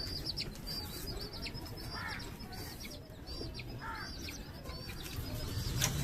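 Desi (village) chicks peeping continually: many short, high cheeps in quick succession, with a couple of lower chirps among them, over a faint low rumble.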